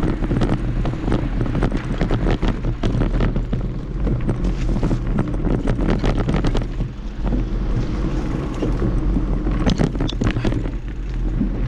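Mountain bike rattling and knocking as it rides over tree roots on a dirt trail, with a steady rumble of wind and ride noise on the microphone.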